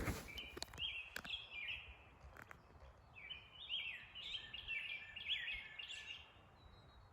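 A songbird singing: many quick, down-slurred whistled notes, faint against quiet woods, with a couple of small clicks.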